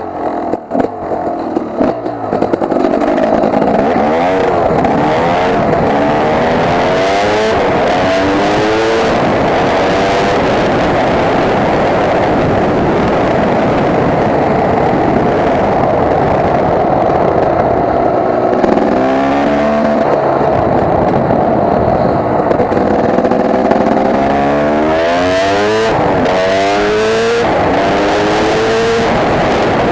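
KTM EXC two-stroke dirt bike engine with a freshly rebuilt top end, being run in on the move: it revs up through the gears several times, the pitch climbing and dropping back at each shift.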